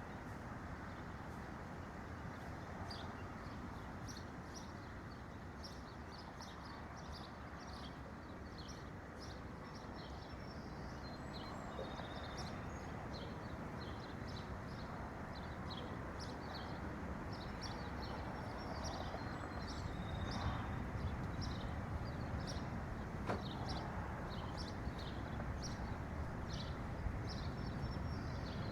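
Small birds chirping with many quick, high calls over a steady low rushing background noise that swells slightly in the second half.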